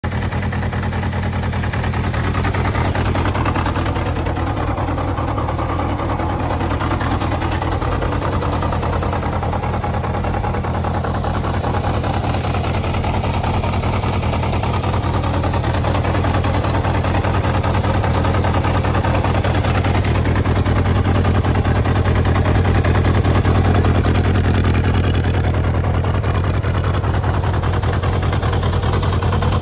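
Yamaha XJR400's air-cooled inline-four engine idling steadily.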